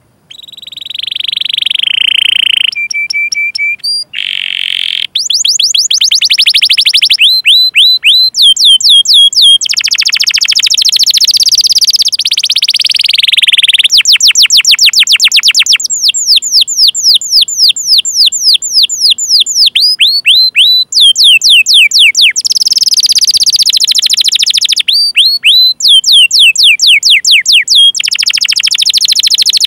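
Domestic canary singing a long, loud song. Rapid runs of quick downward-sweeping chirps ('cuit cuit') alternate with rolled trills, with no pauses.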